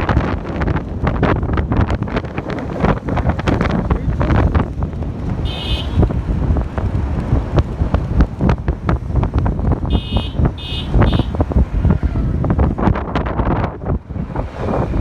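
Heavy wind buffeting on the microphone, gusting unevenly. Short high beeps of a vehicle horn cut through: one about five seconds in and three quick ones about ten seconds in.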